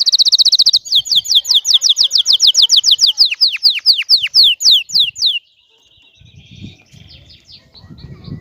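Domestic canary singing. It opens with a very fast high trill, then about a second in a run of loud downward-sweeping notes, about seven a second, that slow and drop lower before breaking off about five seconds in; softer notes follow. Song of the kind the uploader takes as the sign of a male canary ready to breed.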